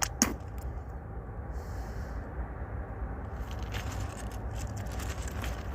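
Low, steady rumble of an approaching freight train's diesel locomotives, still out of sight, with a sharp click just after the start and a few fainter clicks later.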